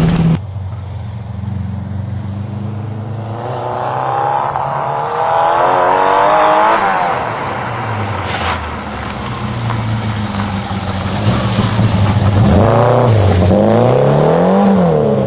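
Saab Sonett III's V4 engine running, its pitch climbing as it revs up about a third of the way in, then settling back. Near the end it revs up and down again.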